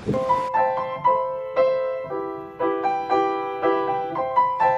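Piano music: a simple melody of struck notes over held chords, at about two notes a second.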